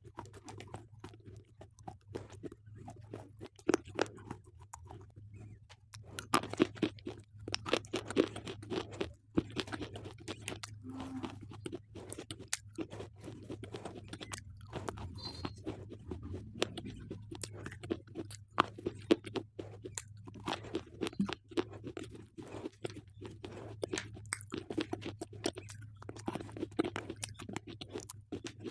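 Slate pencils being bitten and chewed: a quick, irregular run of crisp crunches and cracks.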